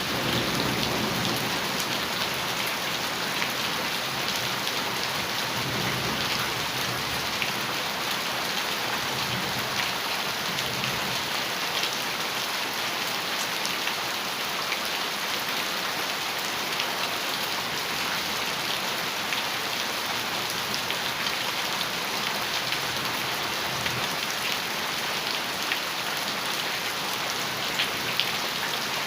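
Heavy rain falling steadily on a metal roof, with a dense spatter of individual drop ticks. A few low rumbles of thunder come and go underneath.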